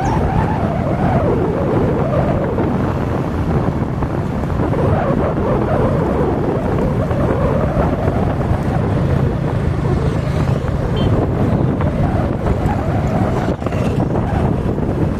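Vehicle traffic on a highway, heard from a moving vehicle: steady engine and road rumble with wind buffeting the microphone, and an engine pitch that drifts up and down.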